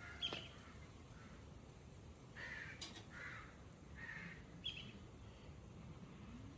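A bird calling faintly three times, short calls about a second apart, with a few light clicks, the sharpest just after the start.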